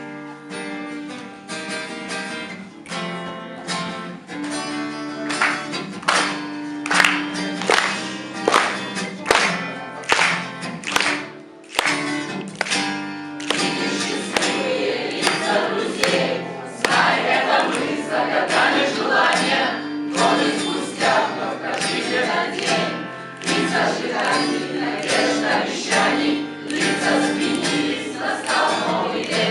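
A group of voices singing a song together to strummed guitar accompaniment, the group's traditional song.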